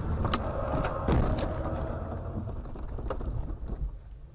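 Vehicle rumble with several sharp knocks and a heavy thump about a second in, dying away near the end.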